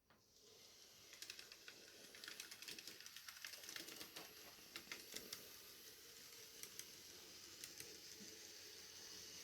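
Faint running of an N gauge Class 158 model train on the track: a soft whirr that swells in over the first second, with a quick run of small irregular clicks from the wheels on the rails.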